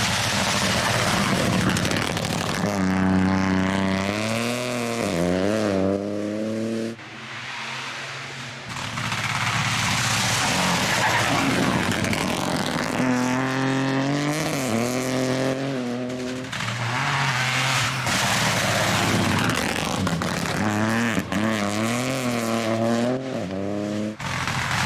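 Rally cars at full throttle. Three times the engine note climbs and drops back in steps through gear changes, with heavy tyre and rushing noise between.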